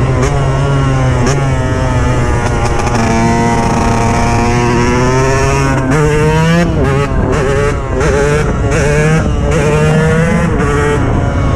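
KTM 125 EXC's single-cylinder two-stroke engine under way, its pitch climbing and falling as the throttle is worked. A little past the middle it revs sharply up and drops away, with brief dips as the throttle is chopped, then pulls up again.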